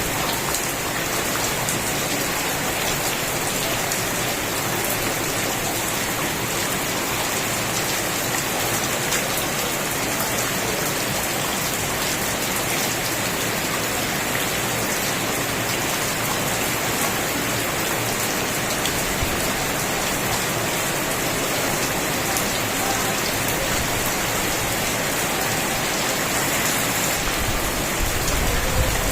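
Steady, heavy rain falling on a surface: a dense, even hiss of drops with individual drop ticks scattered through it, swelling slightly with a low rumble near the end.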